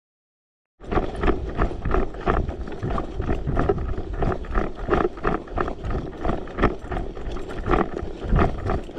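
Rhythmic thumps, about three or four a second, with rustling close to the microphone. They start suddenly about a second in, after a moment of silence.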